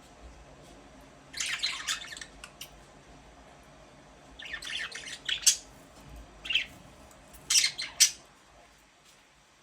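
Budgerigars chirping and squawking in short bursts of sharp calls, four clusters with pauses between.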